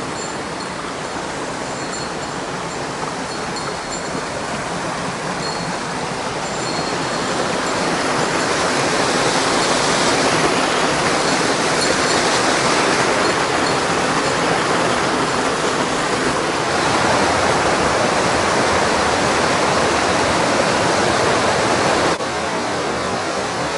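Rushing water of a mountain stream, a steady noise that grows louder over the first ten seconds or so and drops suddenly near the end. Faint high chirps sound in the first few seconds.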